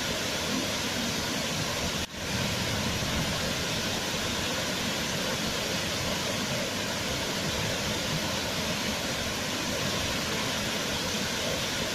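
Waterfall rushing, a steady full roar of falling water, with a brief drop in level about two seconds in.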